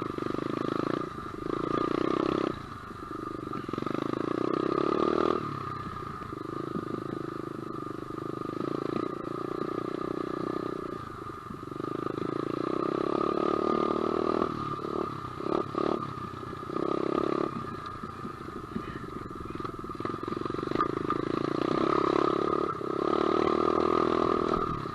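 SSR 125 pit bike's single-cylinder four-stroke engine being ridden, revs surging and dropping back several times as the throttle is opened and closed, with a steady high whine underneath.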